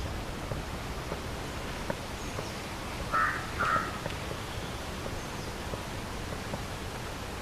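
A crow cawing twice in quick succession, two short harsh caws about three seconds in, over a steady outdoor background hiss with a few faint high bird chirps.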